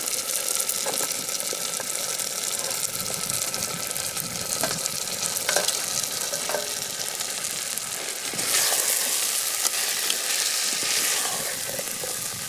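Chicken sizzling as it fries in hot oil and masala in a pan over a wood fire, a steady hiss with a few light clicks, growing louder about eight and a half seconds in.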